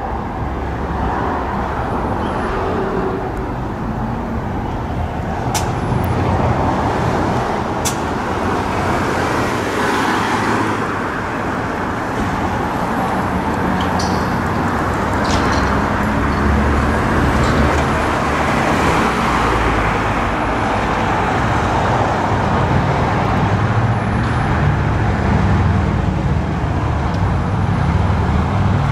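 Heavy road vehicles and traffic running on a street, with a steady low engine rumble and a few sharp clicks.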